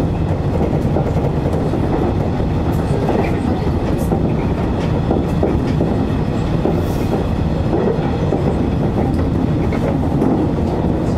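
Electric train running along the track, heard from inside the front cab: a steady, loud rumble of wheels on rails, with faint clicks scattered through it.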